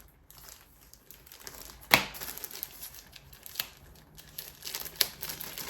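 Packaging crinkling and rustling as items are handled and unwrapped, with a few sharp snaps, the loudest about two seconds in.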